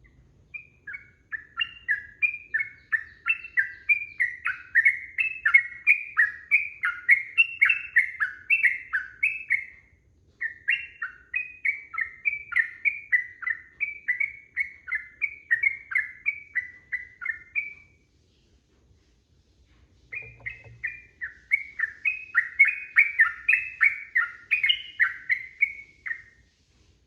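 Yellow-vented bulbul singing its long, rapid song: a fast run of bubbly, sweeping chirps at about three to four notes a second. It comes in three long runs, with a short break about ten seconds in and a longer pause near two-thirds of the way through.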